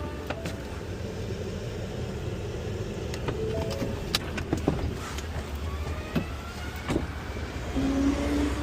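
Rear-loader garbage truck on a Ford F-550 chassis running steadily, with scattered sharp clanks and knocks. A steady whine comes in near the end.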